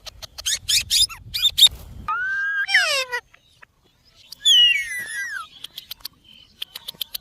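Ringneck parrot vocalising: quick squeaky chirps, then two longer calls with several pitches, about two seconds and four and a half seconds in, the second falling in pitch. Scattered sharp clicks fall between the calls.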